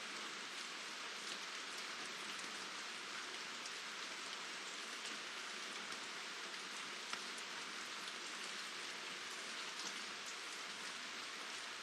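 Steady rain falling, a continuous patter with scattered sharper drop ticks.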